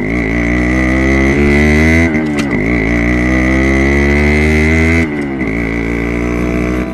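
Yamaha RX 100's single-cylinder two-stroke engine running and being revved, its pitch dipping and climbing back about every two and a half seconds.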